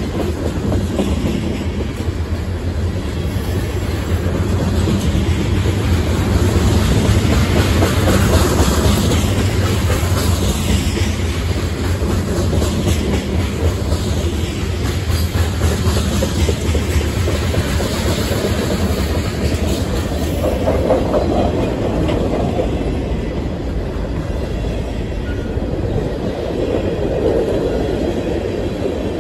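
A freight train's cars rolling past close by, covered hoppers and then a tank car and flatcars, their steel wheels making a steady low rumble on the rails.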